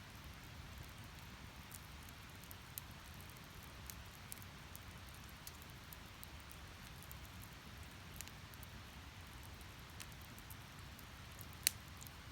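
Firewood burning in a Snow Peak Takibidai S steel fire stand: scattered small crackles over a steady low rumble, with one sharper pop near the end.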